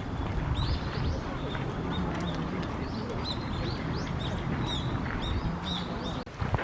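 Small birds chirping, many short high chirps repeated in quick succession over a steady low background rumble.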